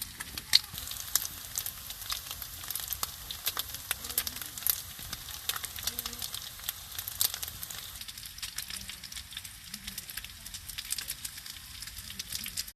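Food sizzling and crackling in a hot pan: a steady frying hiss with dense spitting crackles, cut off abruptly at the end.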